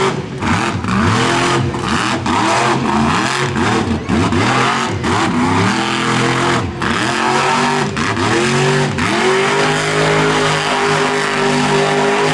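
Monster truck engine revving hard in quick repeated bursts, its pitch rising and falling with brief cuts in throttle, then held at a high steady rev for the last few seconds.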